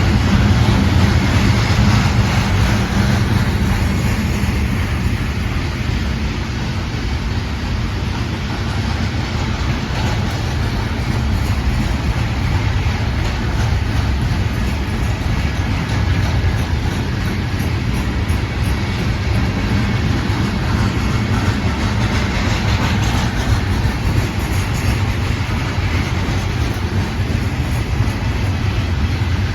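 Norfolk Southern trash train rolling steadily past, a continuous low rumble of freight car wheels on the rails.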